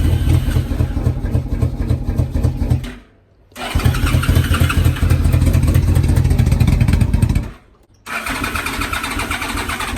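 A 2006 Yamaha Royal Star Tour Deluxe's V4 engine being turned over on the electric starter in three separate attempts without catching, with short pauses between them. The bike has sat for three months and is suspected to be flooded.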